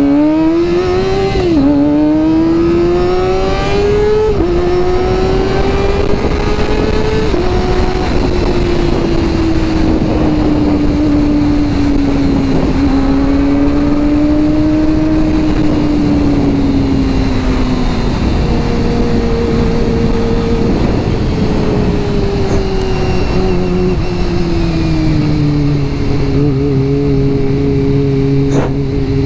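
Kawasaki ZX-25R's 250 cc inline-four engine, fitted with an Akrapovic exhaust, accelerating hard at high revs. The pitch climbs and drops sharply three times in the first seven seconds as it is shifted up through the gears, then rises and falls with the throttle while riding and falls lower near the end as the bike slows. Wind rushes over the microphone throughout.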